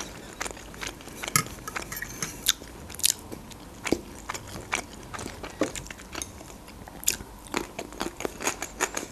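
Close-miked mukbang chewing: a person's mouth working a mouthful of food, with wet smacks and small clicks at irregular intervals.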